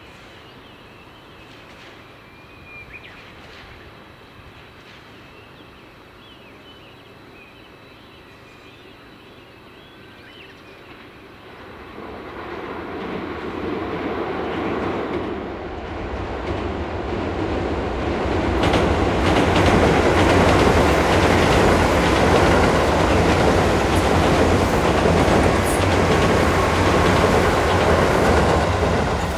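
Tobu 10030 series electric train approaching and passing. A rumble builds from about eleven seconds in, and the loud run-by comes over the last ten seconds, with wheels clattering over the rail joints.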